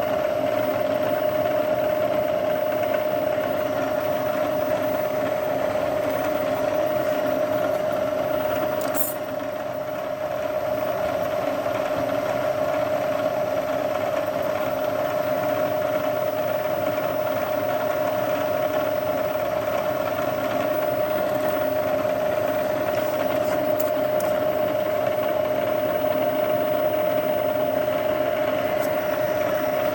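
A machine tool running steadily, its motor and gearing giving a constant whine, as holes are spotted with a centre drill. The level dips briefly about nine seconds in.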